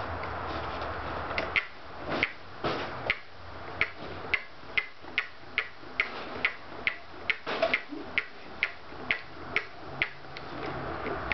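Scotts steering damper creaking with sharp clicks, about two a second, as the handlebars are forced against it on a high damping setting. The clicking feels like something inside the damper may be binding.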